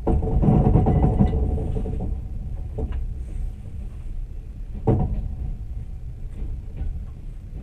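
Low rumble of a moving passenger train heard from inside the carriage, louder over the first two seconds, with two sharp knocks about three and five seconds in.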